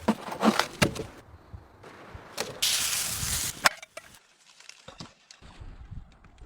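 Wood being chopped, with several sharp strikes in the first second, then about a second of loud hissing noise, followed by a few faint knocks.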